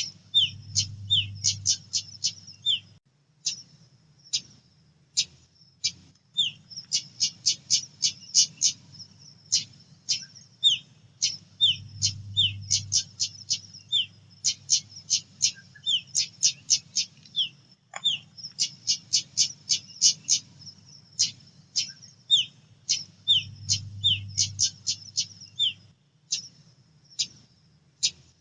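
Female pied bushchat (decu) calling: runs of sharp, rapid ticking notes mixed with short downward-sliding whistles, repeated throughout, over a faint low hum.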